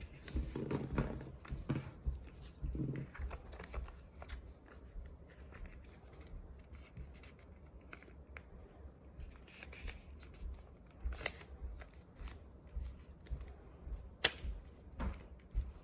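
A sheet of paper being folded and creased into a paper airplane's wings: rustling and crinkling with scattered sharp crackles, the loudest about eleven and fourteen seconds in.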